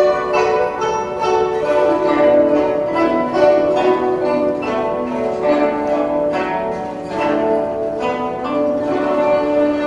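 Guzheng ensemble playing a flowing melody: many zithers plucked together in quick notes that ring on over one another.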